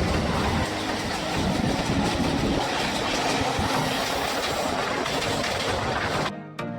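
Steady running noise of an express passenger train under way. Music cuts in abruptly near the end.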